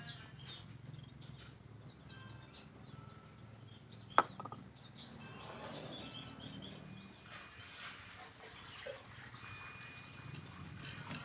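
Small birds chirping in many short, quick calls over a low steady hum, with one sharp knock about four seconds in.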